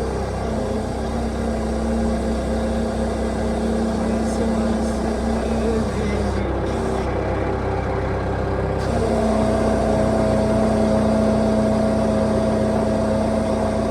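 Skid-steer loader's engine running steadily under the operator, its note changing as the machine is driven and turned: the steady tones weaken about half a second in and come back strongly about nine seconds in.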